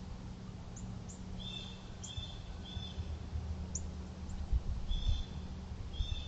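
Small birds chirping: short, even chirps in two groups, three close together and then two more near the end, with brief high peeps in between, over a steady low rumble.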